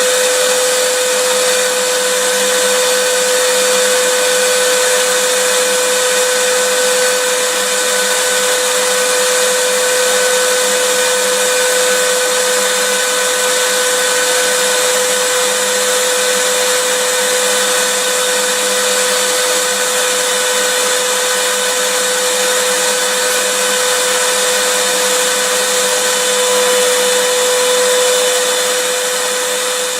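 Vacuum cleaner running steadily: an even rushing noise with a constant motor whine, unchanging throughout.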